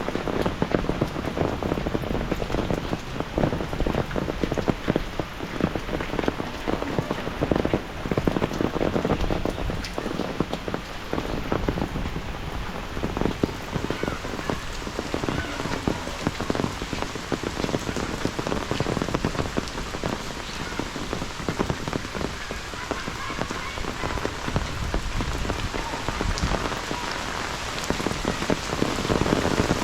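Heavy rain falling steadily, a dense continuous hiss of countless drops striking surfaces.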